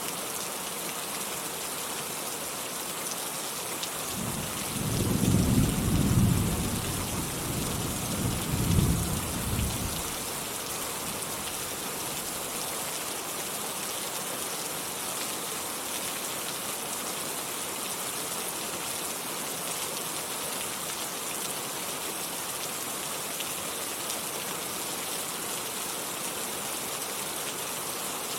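Steady rainfall with a low rumble of thunder rolling in about four seconds in, swelling twice and fading away after about six seconds, then rain alone.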